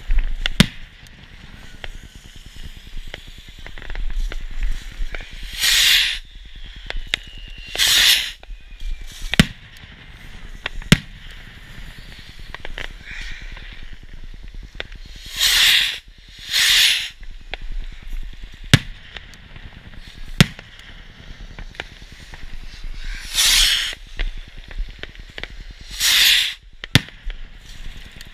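Consumer fireworks going off: frequent sharp bangs and crackles, with six short, loud hissing bursts coming roughly in pairs.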